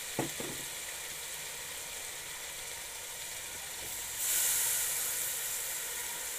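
Cubed potatoes sizzling in hot oil and tomato-spice masala in a cooking pot. There are a couple of light knocks just after the start, and about four seconds in the sizzle grows louder and hissier, then eases.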